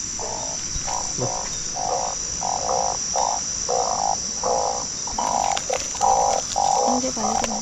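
Frogs calling in a chorus: short croaking calls repeating about twice a second, over a steady high-pitched insect drone.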